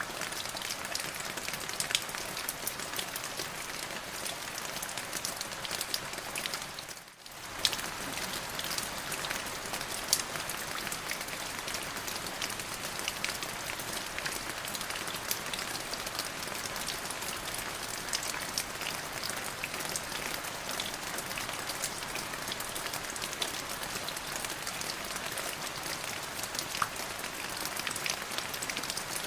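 Steady rain falling, with many individual drops ticking sharply over the even hiss of the downpour. The sound drops away briefly about seven seconds in, then returns with a sharp click.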